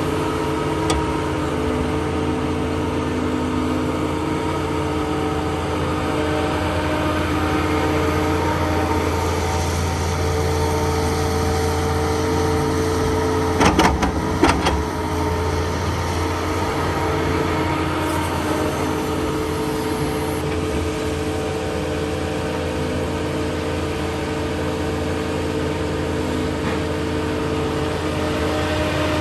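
Heavy diesel earthmoving machinery running steadily at work. A short cluster of sharp knocks about halfway through is the loudest moment.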